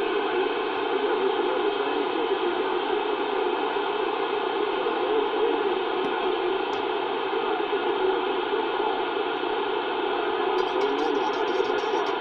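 CB radio receiver with an open channel: a steady hiss of static, with faint garbled skip signals under it and a run of light clicks near the end.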